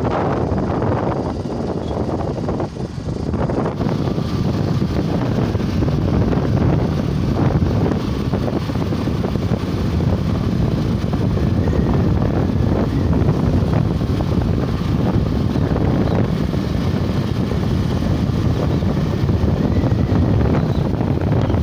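Wind noise buffeting the microphone on a moving motorcycle, over steady road and engine noise.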